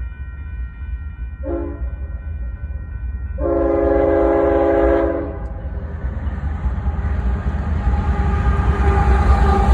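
Union Pacific locomotive's air horn sounding a short blast, then a longer blast of about two seconds. The train's low rumble grows steadily louder as it approaches.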